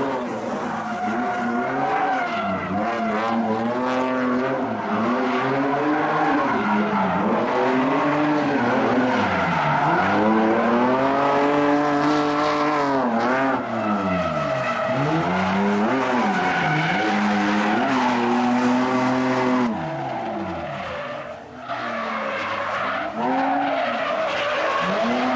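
Drift car's engine revving hard and dropping back again and again, its pitch swinging up and down every second or two, over the hiss and squeal of tyres sliding sideways. The sound briefly drops about 21 seconds in.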